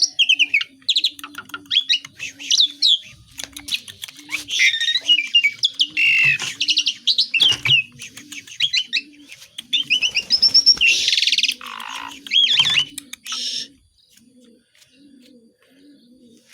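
Asian pied starling (jalak suren) singing a loud, varied song of whistled glides and rapid rasping notes, which stops about 14 seconds in. A dove coos steadily and softly underneath throughout.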